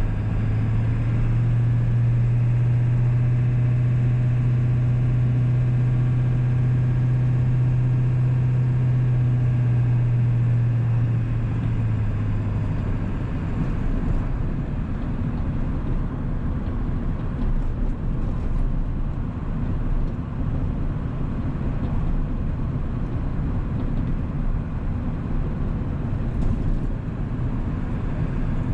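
1997 Ford 7.3 Powerstroke V8 turbo-diesel truck driving: a steady low engine drone for about the first twelve seconds, which then eases off, leaving a rougher rumble of engine and road noise.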